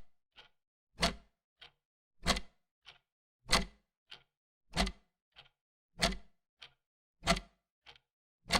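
Clock ticking in an even tick-tock: a loud tick followed by a much fainter tock about half a second later, the pair repeating about every 1.25 seconds.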